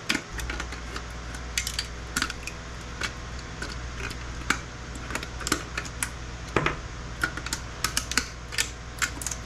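Irregular small clicks and taps of tools and components against circuit boards as parts are pried and snapped off. A steady low hum comes in just after the start.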